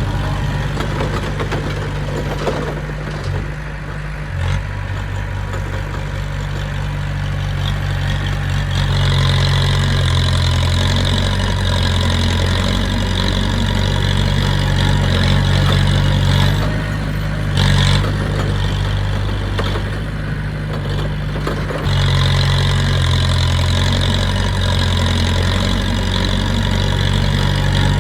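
Heavy diesel engine of a bulldozer running under load. The engine note gets louder and busier about nine seconds in, eases off for a few seconds past the middle, then picks up again, with a higher whine joining it in the louder stretches.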